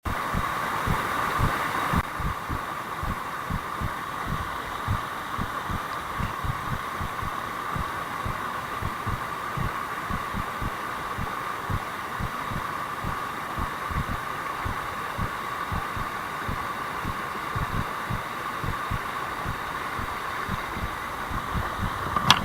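Steady rush of a mountain stream, with irregular low thumps throughout and a sharp click near the end.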